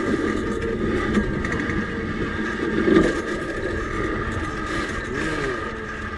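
Home-built railbike rolling along the rails: a steady rumble and rattle from the wheels on the track, with a constant high whine over it.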